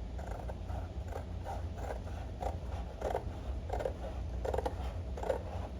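Scissors cutting through template paper, a steady run of crisp snips about two a second.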